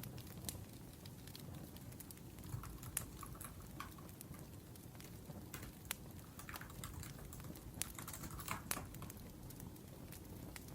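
Typing on a laptop keyboard: soft, irregular key clicks, some in quick clusters, over the low steady sound of a wood fire burning.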